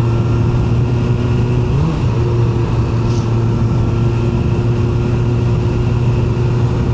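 QJMotor SRK 921 RR's 921 cc inline-four engine running steadily, with a brief dip and recovery in pitch about two seconds in.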